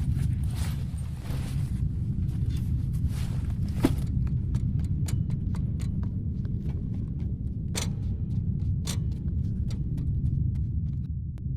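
Steady low hum of a spaceship-interior ambience bed. It carries a soft hiss over the first few seconds, then scattered, irregular sharp clicks and taps, with a few stronger ones late on.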